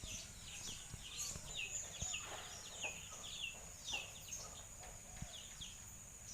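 Birds chirping: a quick, irregular series of short, falling chirps, over a steady high-pitched whine.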